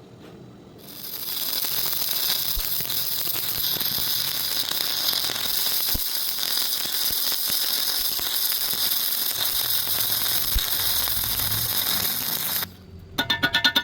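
Electric welding arc crackling steadily, starting about a second in and cutting off abruptly near the end.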